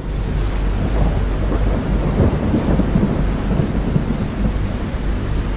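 Steady, dense rain with a low rumble underneath that swells and then settles about two seconds in.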